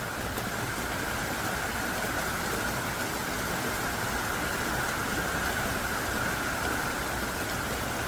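Heavy, pouring rain falling in a steady, dense hiss.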